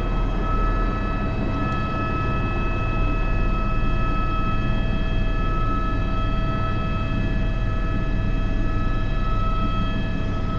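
Airbus H125 (AS350 B3) helicopter running steadily: a constant turbine and gearbox whine over the low rumble of the rotor.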